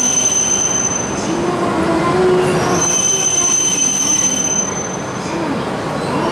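Shinkansen train pulling into the platform, rolling noise with a high steady whine that drops out about a second in and comes back near three seconds. Lower motor tones slide up and down in pitch as it slows.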